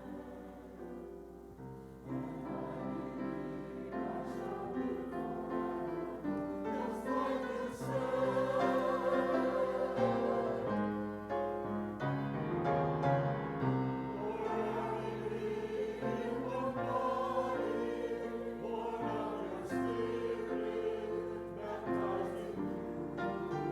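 Choir singing with piano accompaniment, sustained chords with vibrato in the voices.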